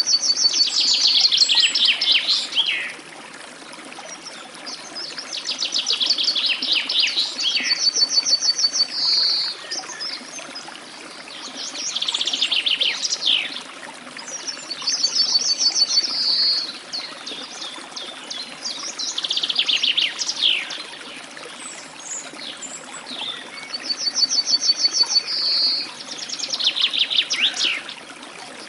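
A songbird singing the same song phrase again and again, a new one every few seconds: each is a rapid high trill followed by a quick run of notes that drop in pitch.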